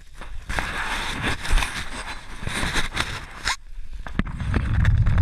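Mountain bike ridden over a snowy road: rough, crackly tyre-on-snow noise with scattered clicks that stops suddenly, followed by a low rumble of wind on the microphone.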